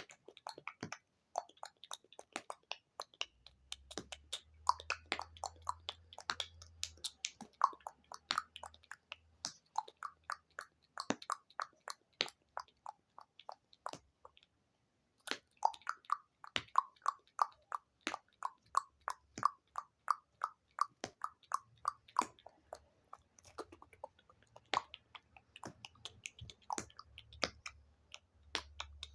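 Close-miked ASMR mouth sounds and tapping: a rapid run of small wet clicks and pops. After a brief pause about halfway through comes an even string of pitched pops, a few a second.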